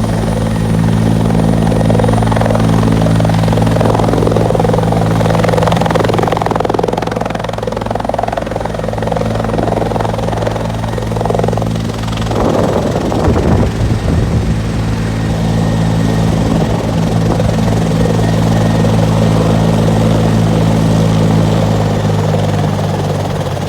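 Los Angeles County Fire Department helicopter's rotor and turbine running steadily at a constant pitch. A brief irregular rumble comes and goes about halfway through.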